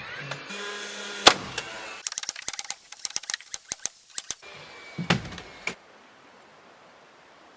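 Sharp knocks and clicks: one hard knock, then a quick irregular run of sharp clicks for about two seconds, then a heavier thump.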